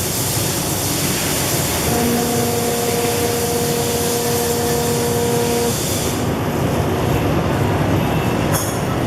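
Toyota Tercel under way, a steady rush of road and running noise with no unusual knocks or rattles: a test run in which the car is judged free of abnormal noises. A steady hum with a few overtones comes in about two seconds in and stops near six seconds, and there is a brief click near the end.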